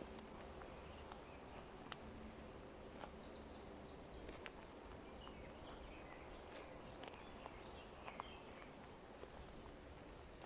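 Faint forest ambience over a low steady background, with a run of short falling bird chirps a few seconds in, more scattered chirps later, and a few sharp small clicks.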